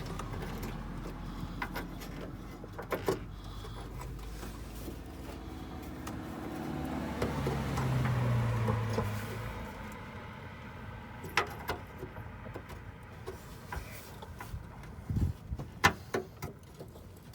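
A motor vehicle's sound swells to a peak about halfway through and then fades, like a car passing. Sharp clicks and taps are scattered throughout, more of them in the second half, from the headlight bulb and its housing being handled and fished into place.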